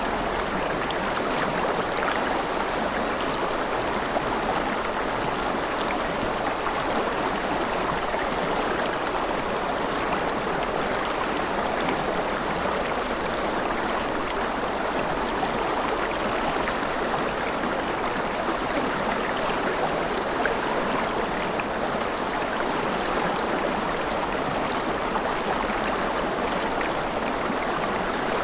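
River water flowing and splashing, a steady even rush with small splashes scattered through it.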